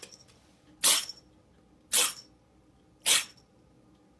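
Cat sneezing three times, a short sharp burst about once a second.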